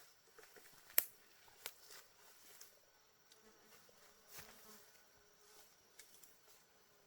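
Faint buzzing of a flying insect, with a few sharp clicks, the loudest about a second in.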